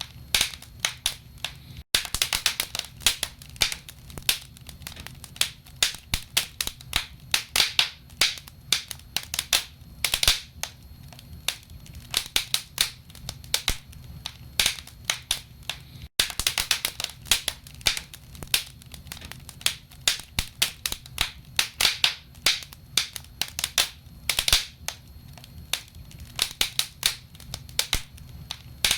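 Logs burning in a fireplace, crackling: dense, irregular sharp pops and snaps, several a second, over a low steady rumble.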